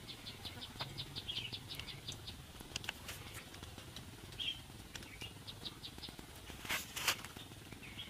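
Faint bird calls: short chirps and rapid runs of high ticks. Two sharp clicks near the end, which are the loudest sounds, come from the wire snares being handled on the stick.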